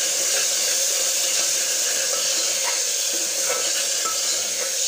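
Onion-and-spice masala sizzling steadily in hot oil as it is stirred with a steel ladle. It is being fried (bhuna) until the oil starts to separate.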